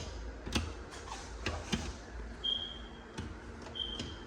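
Wall light switches being clicked on and off, about six separate clicks. None of them brings a light on: the switches are not working. Two short high-pitched beeps sound about two and a half and four seconds in.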